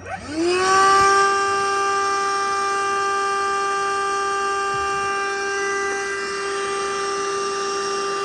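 Hercules cordless portable vacuum switched on, its motor spinning up in a quick rising whine and then running at a steady high whine with airflow hiss.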